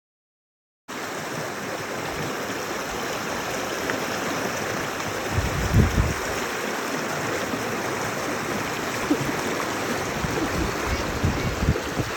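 Steady rush of running water, starting abruptly about a second in, with a few short low bumps near the middle.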